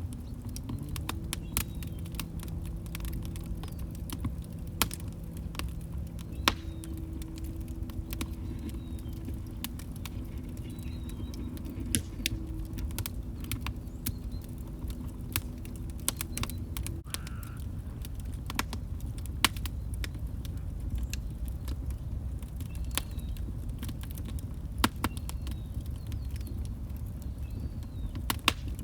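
Wood fire in a fireplace crackling: irregular sharp pops and snaps over the low, steady rumble of the flames. A faint low steady hum comes in about a second in and stops abruptly a little past halfway.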